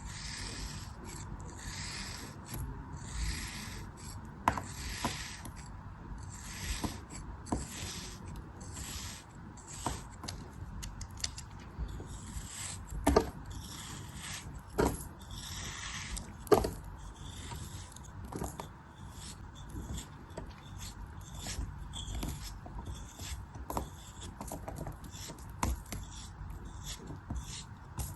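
Repeated scraping cutting strokes through a soft craft material, about one every second, with a few sharp knocks in the middle.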